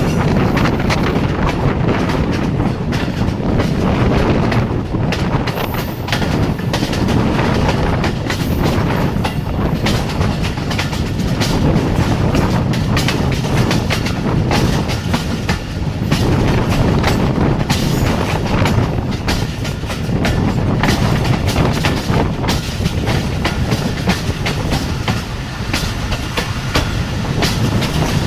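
Jaffar Express passenger train running at speed: a steady rumble of wheels on rails with a continuous clatter of clicks and knocks as the wheels pass over rail joints.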